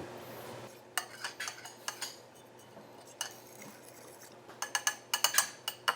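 Kitchen utensils and dishes clinking and knocking in scattered sharp taps, with a quick run of clinks near the end, over a faint steady low hum.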